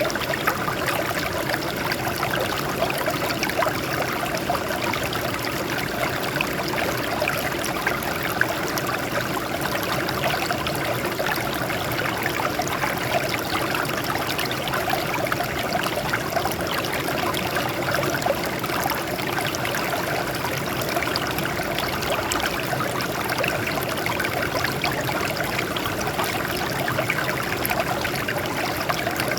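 Water flowing and trickling steadily over rocks, a continuous babbling splash.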